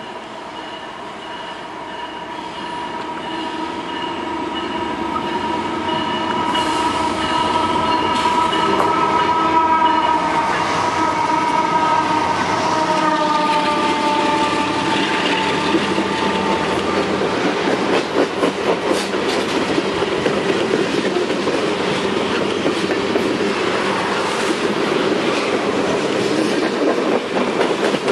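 Two GE ES44AH diesel locomotives approach and pass, growing louder, with several steady tones sounding together that drop in pitch as the locomotives go by. Freight cars then rumble and clatter past on the rails.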